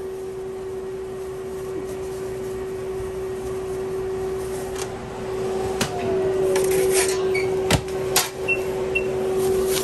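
Steady electrical hum of kitchen equipment behind the counter, with a short falling tone about six seconds in and a few sharp clacks near the end.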